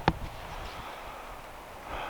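A hiker's footstep on the trail: one sharp knock right at the start, then a steady low hiss.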